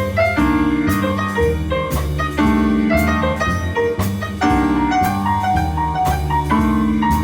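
Jazz band playing a holiday tune, piano to the fore over a walking bass, with a sharp hit roughly once a second.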